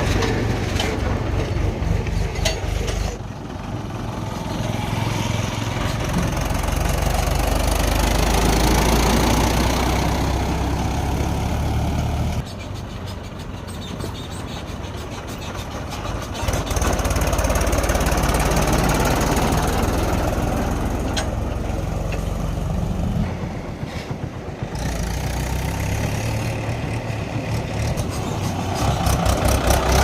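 Heavy diesel engine of a backhoe loader at work, running loud and steady with its speed rising and easing several times, and sudden changes in level a few times.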